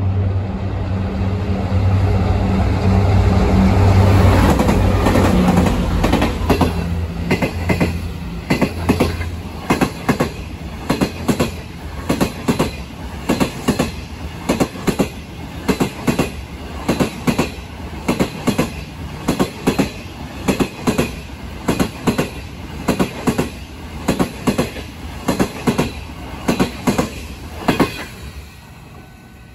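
A train passes close by. First a locomotive's engine runs with a steady low hum. Then the carriages' wheels click regularly in pairs over the rail joints for about twenty seconds and stop shortly before the end.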